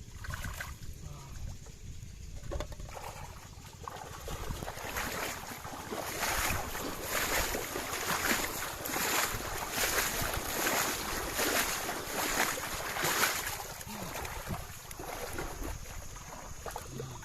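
Water splashing in a steady rhythm, about three splashes every two seconds, for roughly eight seconds in the middle.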